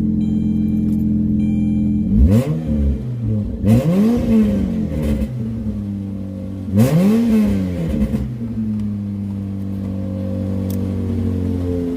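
Saturn Ion Redline's supercharged 2.0-litre four-cylinder idling, given three quick throttle blips about two, four and seven seconds in, each rising sharply and falling straight back to idle. The exhaust leak at its warped flanges has just been sealed with doubled gaskets and RTV.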